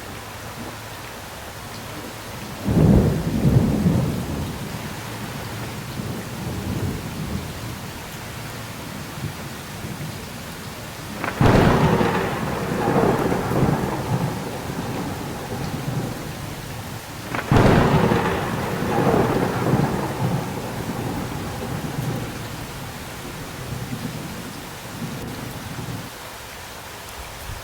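Thunderstorm: steady rain falling, with three claps of thunder about 3, 11 and 17 seconds in. Each clap starts suddenly and rumbles on for several seconds, and the second and third are sharper and crackling.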